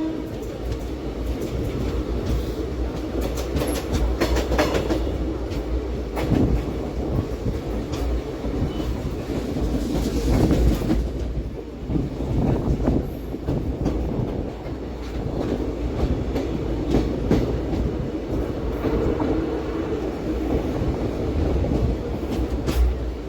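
Passenger train running, heard from inside a coach: a steady rumble of wheels on rail with scattered clicks as the wheels pass over rail joints.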